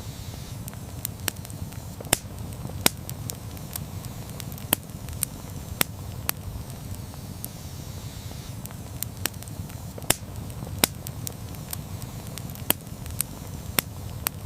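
Wood campfire burning with a low steady rumble and irregular sharp crackles and pops a few times a second.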